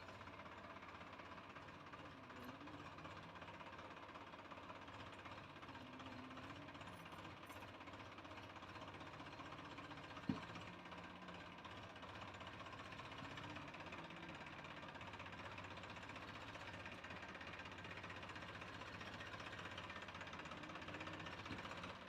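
Tractor's diesel engine running steadily, heard faintly, with a single sharp knock about ten seconds in.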